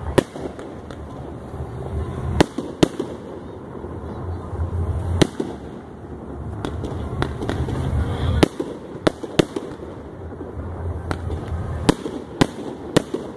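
Aerial fireworks bursting overhead: about ten sharp bangs at irregular intervals over a continuous low rumble.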